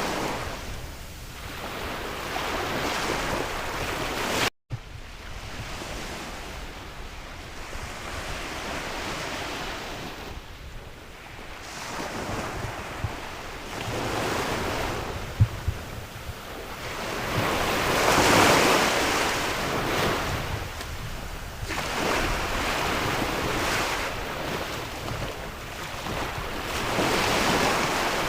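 Sea waves breaking and washing on a shore, swelling and falling every few seconds, with wind buffeting the microphone. The sound drops out for a split second about four and a half seconds in.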